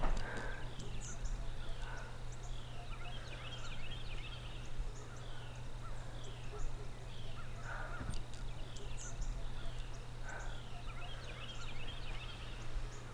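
Birds calling: a high descending chirp repeats about once a second, with a few louder short calls mixed in, over a steady low hum.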